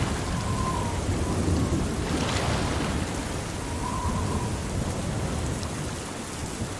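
Steady heavy rain with a low rumble of thunder underneath.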